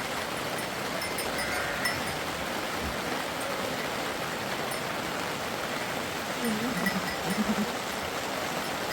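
Steady wash of water noise, from rain and running floodwater, with a few faint low calls about two-thirds of the way through.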